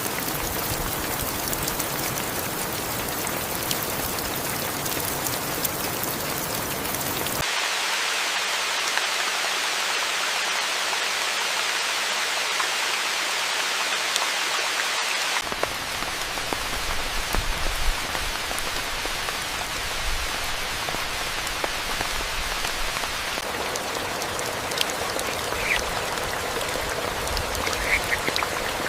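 Steady rain falling, its sound changing abruptly about seven seconds in and again about fifteen seconds in, the middle stretch thinner and hissier with no low rumble. A few short, faint calls are heard near the end.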